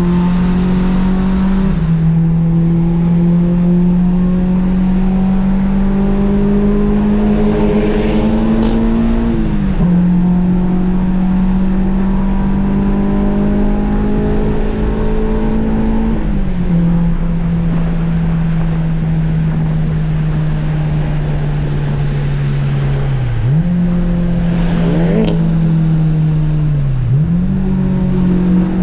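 Honda Civic engine pulling at speed on a wet track: a steady engine note that climbs slowly, dropping briefly several times as the driver shifts or lifts off.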